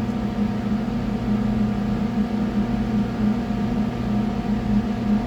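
Steady mechanical hum with a strong low drone and a few fainter steady tones above it, unchanging throughout.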